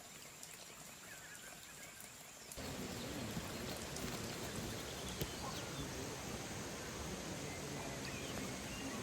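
Quiet forest ambience with a few short bird chirps and a steady high insect drone. About two and a half seconds in it switches abruptly to a louder, steady rush of flowing water, with low wavering sounds beneath it.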